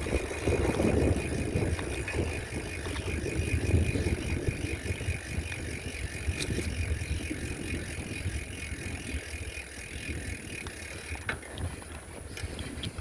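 Bicycle rear freewheel ticking rapidly and steadily as the rider coasts, with wind rumbling on the microphone. The ticking stops about 11 seconds in.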